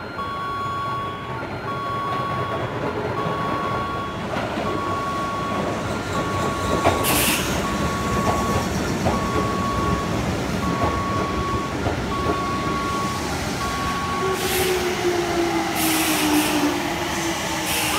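Hokuso Railway 7260-series electric train pulling into a station platform and slowing, its wheels and running gear rumbling steadily, with a falling motor whine as it brakes near the end and short hisses of air about a third of the way in and again near the end. Over it a platform warning chime beeps at one pitch about every second and a half until about 14 seconds in.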